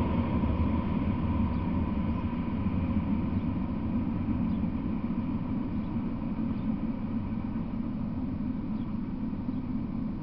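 Rumble of a freight train of covered hopper cars dying away as its last cars pass and it moves off. The deep rumble fades steadily, and a faint ringing tone fades out early on.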